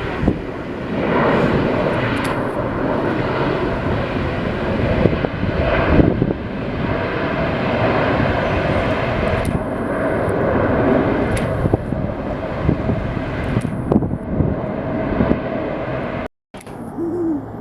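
Jet airliner engines: a loud, steady rush of noise with a steady whine running through it. The sound drops out completely for a moment near the end.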